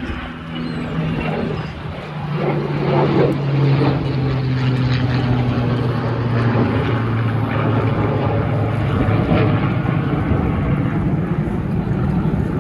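A fixed-wing aircraft flying past, its engine a loud steady drone under a rushing noise. It grows louder about two seconds in, and its pitch slowly falls as it passes.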